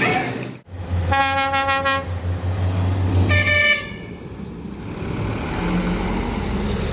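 Truck horns sounding twice: a lower toot of about a second, then a shorter, higher-pitched one about two seconds later, over a truck engine running with a steady low hum that fades after the second toot.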